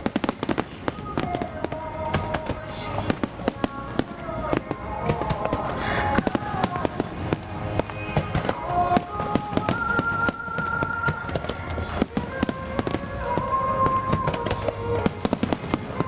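Aerial fireworks bursting in quick succession, a dense run of sharp bangs and crackles. Under them plays the display's accompanying song, with a singer's long held notes.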